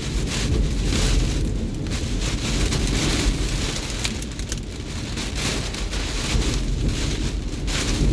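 Hurricane Ian's driving rain and wind, a loud steady rush with a deep rumble, swelling and easing in gusts every second or two.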